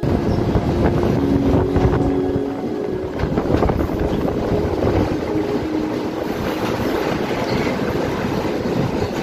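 Passenger train running over a steel girder bridge, heard from the open carriage door, with heavy wind buffeting the microphone.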